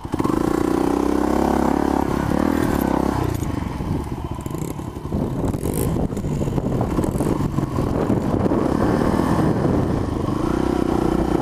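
Small four-stroke dirt bike engine running and revving high, loudest in the first few seconds and again near the end.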